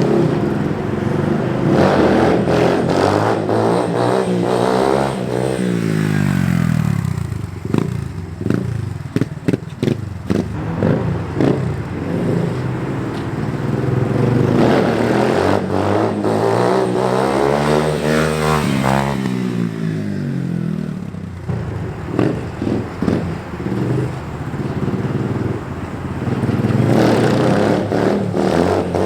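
Dirt bike engine revving hard and easing off again and again in second gear, its pitch climbing and falling in long sweeps, with clattering and scraping knocks in between.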